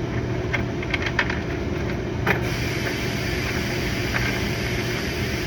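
Steady low mechanical hum with a few light clicks and taps as parts are handled; the sharpest click comes just over two seconds in.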